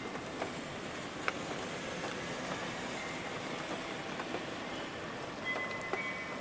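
Steady rain with scattered sharp drop ticks. A few faint chime tones come in near the end.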